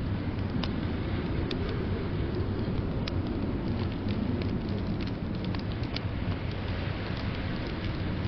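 Fireplace fire crackling, with irregular sharp pops over a steady low rushing bed of rain.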